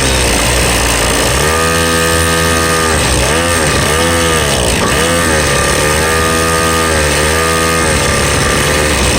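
Small petrol engine revving while riding, held steady for a couple of seconds at a time and rising and falling in pitch several times around the middle, over heavy wind noise on the microphone.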